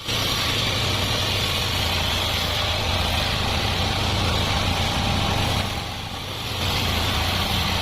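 An engine running steadily at an even speed, with a short drop in level about six seconds in.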